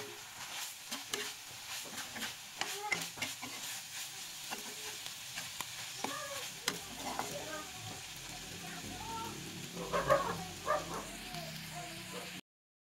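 Bamboo shoots and meat sizzling in a wok while a metal spoon stirs and scrapes them, with frequent clicks of the spoon against the pan. The sound cuts off suddenly near the end.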